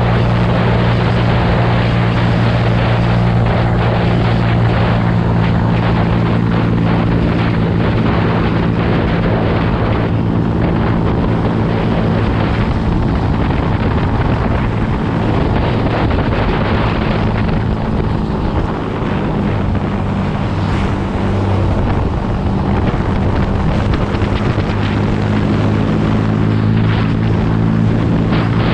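Dirt bike engine running at a steady pace while riding, with wind buffeting the microphone. The engine note fades somewhat about ten seconds in and comes back strongly in the last few seconds.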